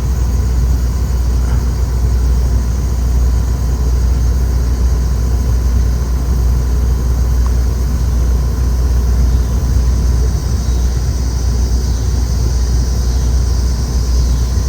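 Outdoor unit of a Mitsubishi Electric Mr. Slim ductless air conditioner running steadily: a strong low hum under even fan noise, with a thin steady tone above.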